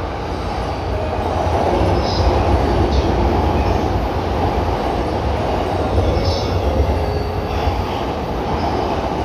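A 15-car JR suburban electric train in orange-and-green livery passing without stopping. Its wheels make a steady heavy rumble on the rails, with brief high squeals now and then.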